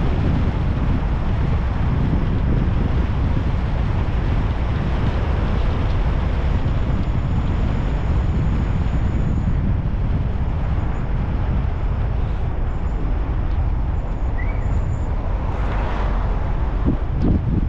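Steady rumble and rush of a car driving on a road: tyre, engine and wind noise, strongest in the low end, with a few short knocks near the end.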